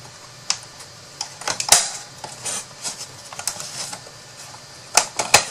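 Irregular light clicks, taps and rustles of hands handling and fitting together the cut pieces of a small storage box. There is one louder knock about a second and a half in, and two sharp knocks near the end.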